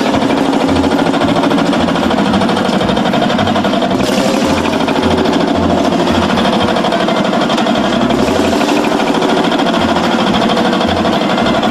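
Vintage engine running steadily with a rapid, even beat.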